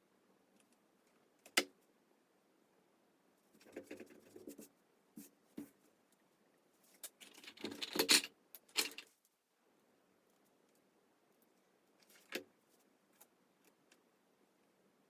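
Handling noises from craft materials being worked by hand: a sharp click about a second and a half in, a cluster of rustling and clattering from about three and a half to nine seconds, loudest near eight seconds, and another click about twelve seconds in.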